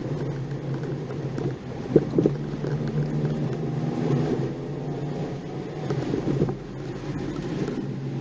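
Nissan March 12SR's 1.2-litre engine heard from inside the car while driving, its note rising and falling. A sharp knock comes about two seconds in, with two more just after, and a short thump comes later.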